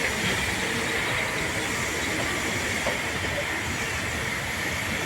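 Steam-hauled passenger train moving, a steady rumble with a high hiss running through it.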